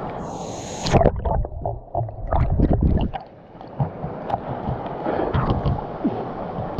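Water sloshing and splashing close to the microphone, in uneven rough bursts that start loudly about a second in, with wind rumble on the microphone.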